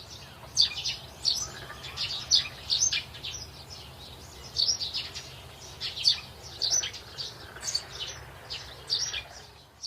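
Birds chirping and tweeting: many short, high chirps in quick, irregular succession, over a faint low hum.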